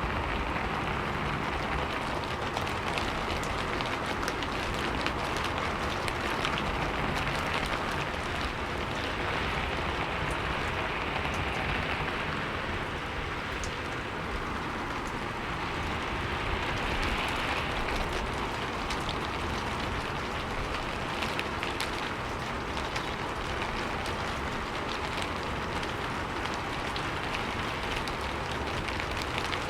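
Steady rainfall, an even hiss with many small drops pattering on a surface.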